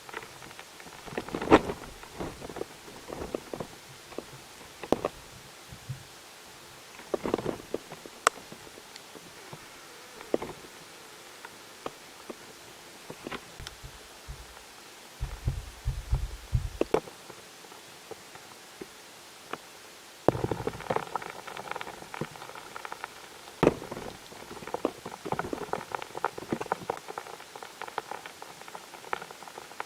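Scattered clicks, taps and low thumps picked up by a microphone in a drilled borehole, over a steady hiss. About twenty seconds in, a steady hum with several tones starts and the taps come thicker.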